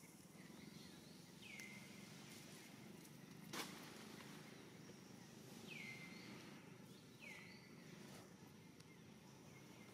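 Faint outdoor background with a bird's short whistled call, repeated about four times, each falling in pitch and then levelling off. A single sharp click sounds about three and a half seconds in.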